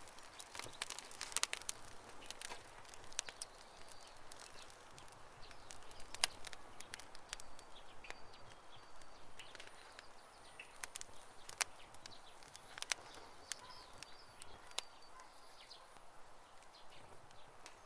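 Campfire crackling: irregular sharp pops and snaps from burning wood over a soft hiss, busiest in the first few seconds and thinning out after.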